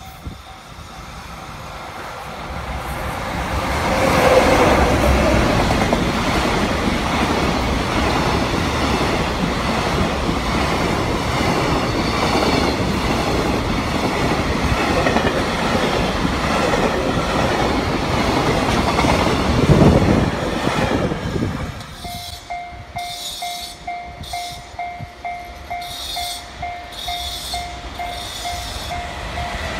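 A JR Freight container train hauled by an EF66 electric locomotive passes close by with a heavy rumble and rail clatter from its wagon wheels, loudest as the locomotive goes past. Near the end a second container train led by an EF210 electric locomotive approaches while a bell-like tone chimes evenly a few times a second.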